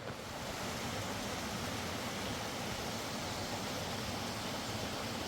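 Steady rushing of river water, an even, unbroken noise that comes up a little just after the start and then holds.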